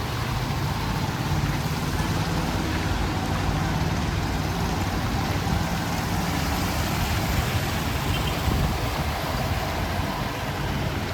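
Steady street traffic noise, with vehicle engines running and idling.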